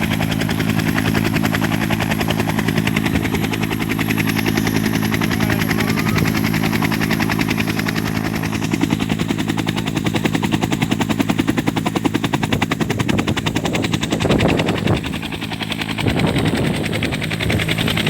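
Helicopter rotor blades chopping fast and evenly over a steady engine drone, dipping briefly in level near the end.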